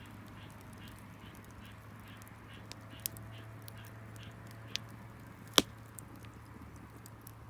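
Wood bonfire crackling, with scattered sharp pops, the loudest about halfway through. A faint high chirping repeats a couple of times a second in the background.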